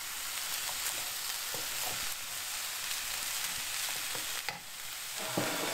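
Beef mince, carrots, onions and peppers sizzling steadily in a hot non-stick frying pan while a wooden spoon stirs and scrapes through them.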